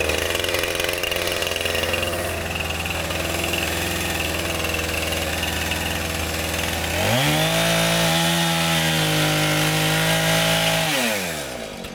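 Small gasoline engine of a portable band sawmill running steadily, then revving up about seven seconds in, holding at high speed, and dropping back down near the end.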